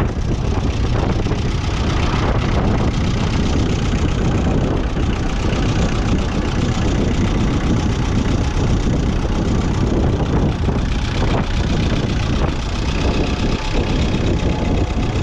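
Massey Ferguson 130 tractor's 1.8-litre four-cylinder diesel engine running steadily.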